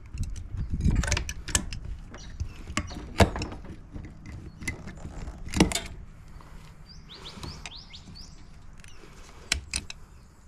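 Irregular clanks, clicks and knocks of metal parts and tools as a dishwasher's motor is worked loose and taken out, with a couple of sharper knocks a few seconds in.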